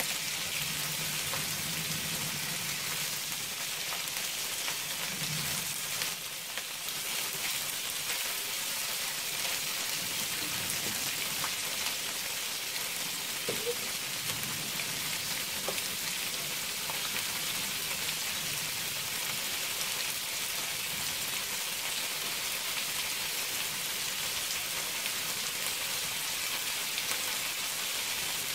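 Prawns frying in a wok, a steady sizzling hiss.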